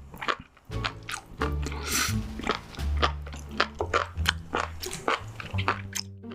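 Close-miked crunchy biting and chewing, many short crackles in quick succession, over background music with held bass notes.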